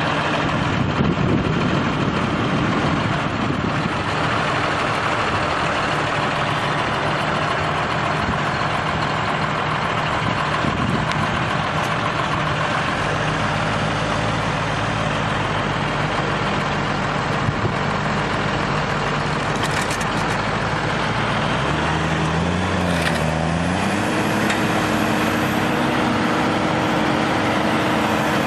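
Heavy vehicle engine running steadily throughout. Late on, its pitch dips and comes back up, then holds steady.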